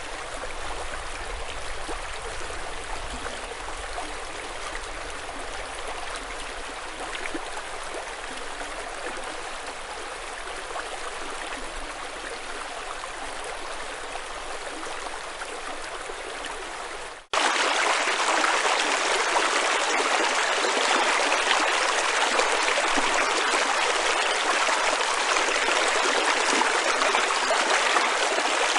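Stream water running steadily over stones. About two-thirds of the way through it cuts abruptly to a louder, closer stretch of running water.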